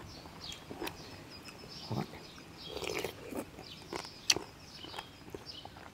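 A person chewing and eating, with small wet clicks and smacks. There is a short murmur about two seconds in and one sharp click a little after four seconds.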